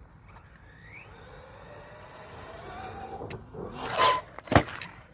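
JLB Cheetah RC buggy's electric motor and drivetrain whining, rising in pitch and getting louder as it accelerates under throttle. About four seconds in comes a loud rush of noise, then a sharp knock.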